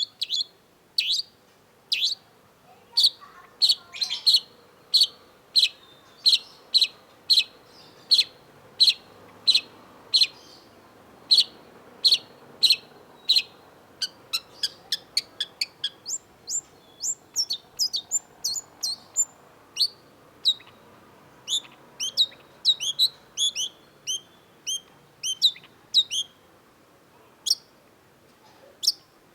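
Long-tailed shrike singing. First comes a run of short, sharp repeated notes, about one and a half a second. From about halfway it switches to a faster, varied string of higher chirps, which thins out near the end.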